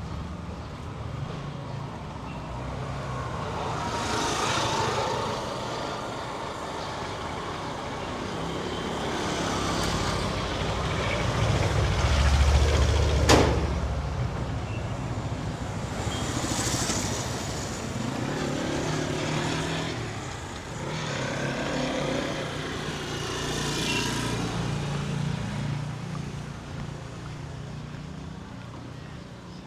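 Street traffic passing close by: motor vehicles go by one after another, each swelling and fading over a few seconds. The loudest, a heavy vehicle, passes about halfway through, with a sharp crack at its peak.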